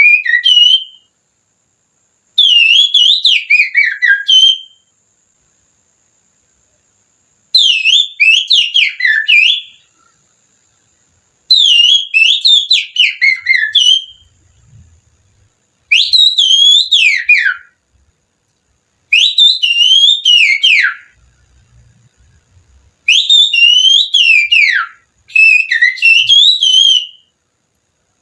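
Whistling through a little finger in imitation of an oriental magpie-robin's (kacer's) song. It comes as about eight loud phrases of about two seconds each, with short pauses between. Each phrase is a quick warbling run of up-and-down notes that drops in pitch at its end.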